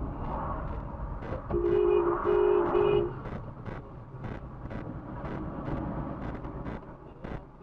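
Car horn sounding three quick honks about a second and a half in, over the steady engine and road noise of a car on the move. Faint regular ticks run underneath, about two a second.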